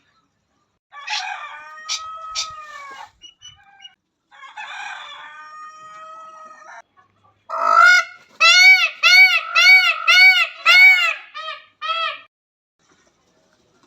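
Indian peafowl (peacock) calling: two drawn-out calls, then a quick run of about ten short, loud, repeated notes, roughly two to three a second, that stops about twelve seconds in.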